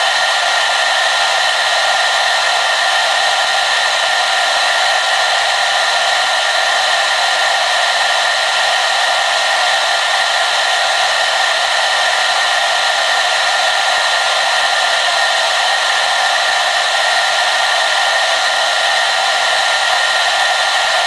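Hair dryer running steadily: an even, airy rush with a faint steady whine in it and little low end.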